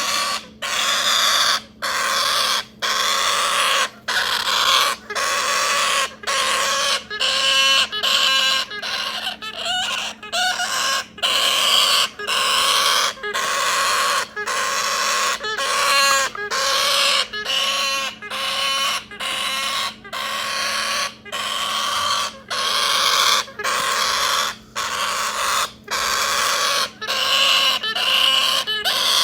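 Galah chick making harsh, raspy begging calls over and over in a steady rhythm, about three calls every two seconds, with brief pauses between them; a few calls turn into a buzzy, stuttering sound.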